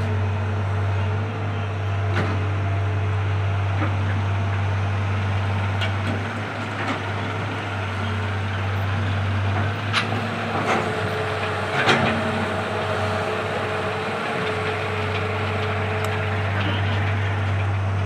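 Heavy machine's diesel engine running steadily with a low hum. A few sharp knocks and clanks sound over it, the loudest about ten and twelve seconds in.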